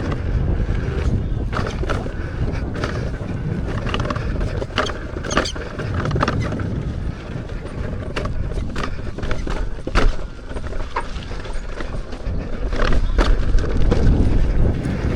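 Wind buffeting the microphone while riding an electric unicycle down a dirt trail, with scattered clicks and knocks from the tyre going over rough ground.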